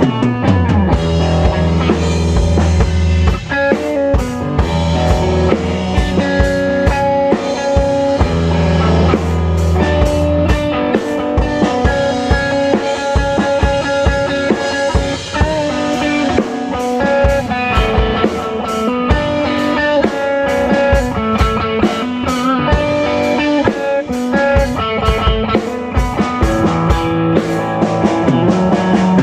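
A live band jamming rock music, recorded raw: guitar over a drum kit keeping a steady beat, with long held low notes in the first ten seconds or so.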